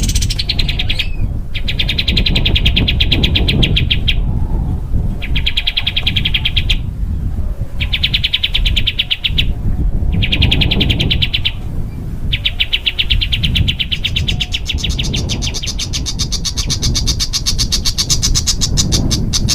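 A small songbird singing dense, harsh rattling trills of very rapidly repeated notes, in bursts of about two seconds with short pauses. The last, longer trill jumps higher in pitch a little past two-thirds of the way in. A steady low rumble runs underneath.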